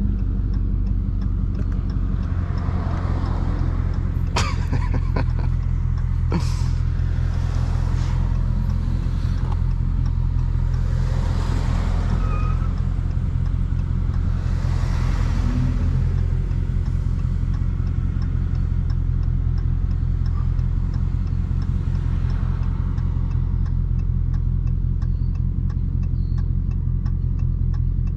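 Dodge Charger Daytona 392's 6.4-litre HEMI V8 running at a steady, unchanging engine speed with a deep rumble. Several swells of rushing noise come and go over it, and there are two sharp clicks about four and six seconds in.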